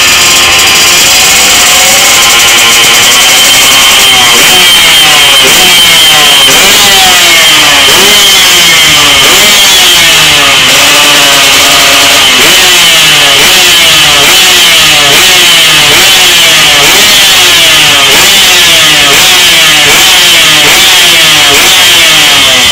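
Loud Yamaha RX-King two-stroke single-cylinder engine being revved again and again, its pitch rising and falling about once a second, as the engine is test-run after its ports were reworked.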